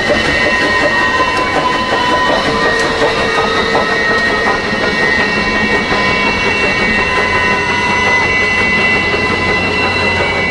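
Train rolling past on its rails: a steady rumble with clickety-clack and a constant high squealing ring from the wheels.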